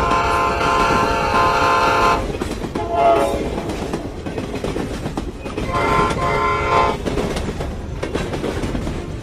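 A train horn sounds, then a train runs past with its wheels clattering on the rails. The horn sounds briefly twice more, about three and six seconds in.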